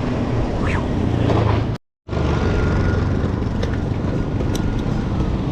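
Wind noise on the microphone and tyre rumble from a mountain bike under way. The sound cuts out completely for a moment about two seconds in.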